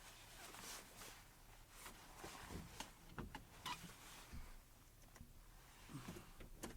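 Near silence with a few faint, scattered clicks and low knocks.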